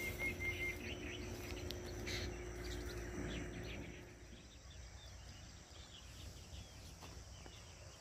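Birds chirping and calling outdoors, many short faint calls over a low background, with a faint steady hum during the first three seconds.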